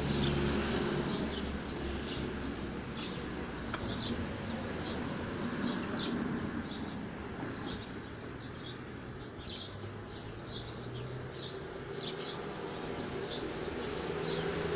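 Small birds chirping in a rapid series of short, high chirps, each sliding down in pitch, over a steady low background noise.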